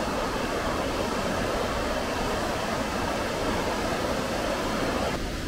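Steady rush of fast-flowing river water, a loud even noise with no distinct events, that changes abruptly near the end.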